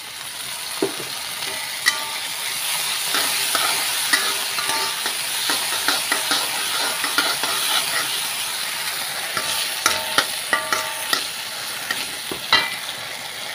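Soy-sauce and sesame-oil sauce sizzling in a hot wok of fried onions, garlic and ginger, stirred briskly with a metal spatula that scrapes and clinks against the wok. The sizzle builds over the first second or two as the sauce hits the oil, and there is one sharp clank of the spatula near the end.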